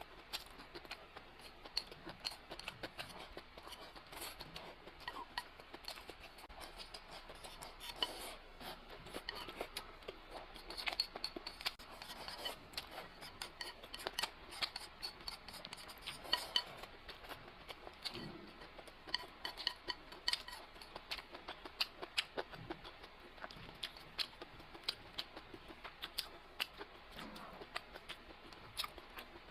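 Eating sounds: chewing and crunching with many small, irregular sharp clicks, and utensils tapping against dishes.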